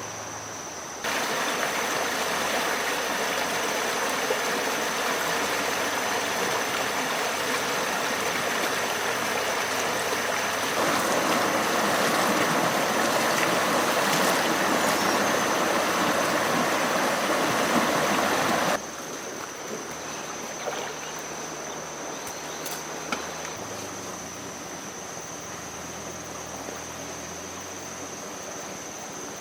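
Rushing water like a stream, starting abruptly about a second in, growing louder at about eleven seconds and cutting off sharply after about eighteen seconds. A steady high-pitched whine runs underneath, and quieter outdoor ambience follows.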